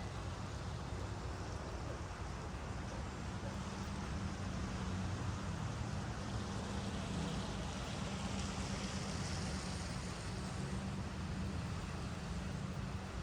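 Steady rain falling, an even hiss over a constant low rumble, with a brighter, higher hiss swelling for a few seconds in the middle.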